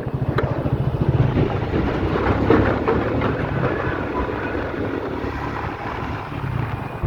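Triumph motorcycle engine running with a rapid, even low pulse, under a steady rush of wind and road noise.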